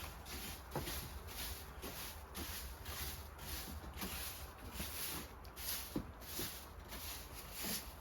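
Footsteps crunching through snow at a steady walking pace, about two steps a second, over a low steady rumble.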